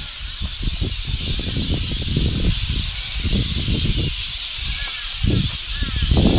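Wind buffeting the microphone in uneven low gusts over a steady high hiss, with a few short bird calls near the end.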